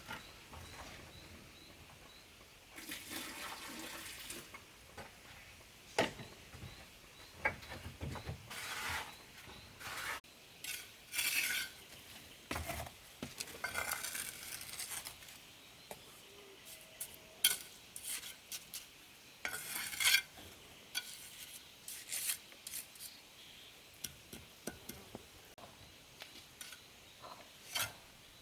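Irregular clinks, scrapes and knocks of hard objects being handled, with a longer scraping sound a few seconds in and scattered sharp taps after it.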